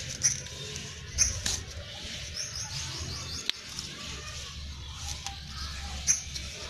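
Small birds chirping repeatedly, with a quick run of chirps about two and a half seconds in. A few sharp clicks and leaf rustles come from a hand picking pods off the bean plants.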